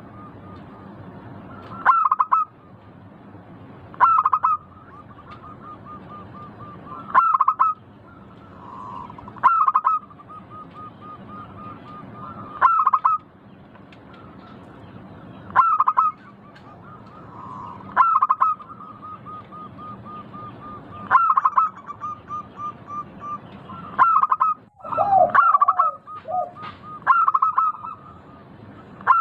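Zebra dove (perkutut) cooing song: a loud call about every two to three seconds, with a run of soft, rapid notes between the calls. Near the end the calls come closer together and some lower notes join in.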